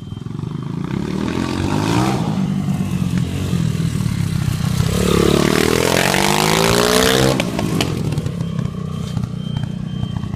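Pit bike engine revving: a short rise in revs about two seconds in, then a longer, harder climb from about five seconds that cuts off abruptly about seven seconds in, after which it runs on at low revs.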